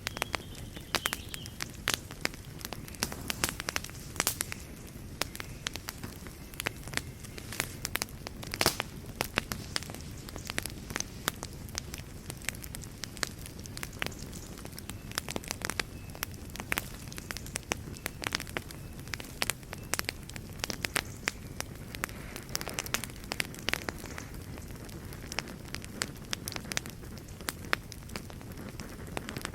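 Wood fire in a fireplace crackling and popping, with many irregular sharp snaps over a steady low rumble of the flames.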